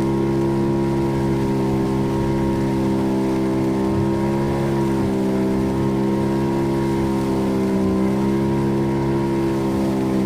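Fishing boat's engine running steadily under way, its pitch sagging slightly about four seconds in and again about eight seconds in.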